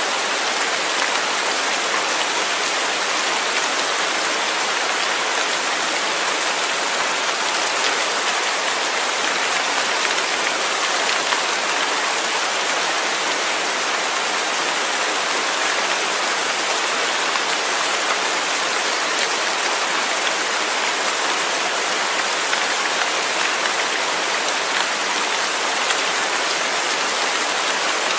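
Steady rain falling, an even hiss of drops with no thunder or other events.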